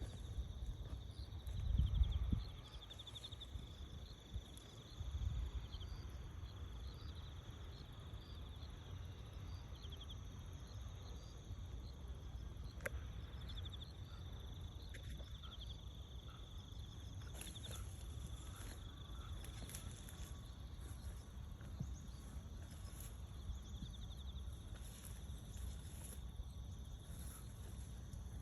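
Steady outdoor insect chorus: a continuous high buzzing with short pulsed trills recurring every second or two. There is a low rumble near the start, and brief faint high chirps appear from about halfway through.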